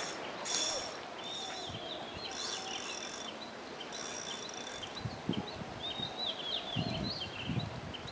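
Birds chirping and twittering over outdoor ambience, with a high buzz that swells and fades about every second and a half. A few dull thumps come in the second half.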